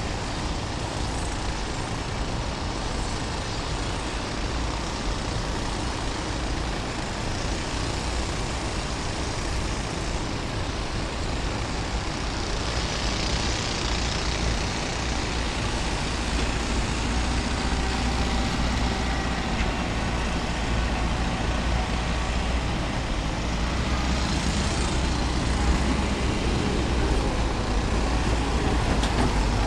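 Waterfall: a steady rush of water falling over rock, slowly getting a little louder.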